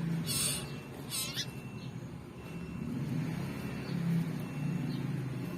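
Common iora (cipoh) nestling giving two harsh, raspy begging calls in quick succession while being hand-fed, then a few faint calls, over a steady low hum.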